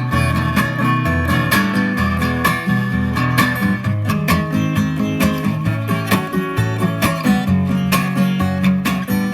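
Instrumental break of a live song: acoustic guitar strummed in a steady rhythm over changing low bass notes.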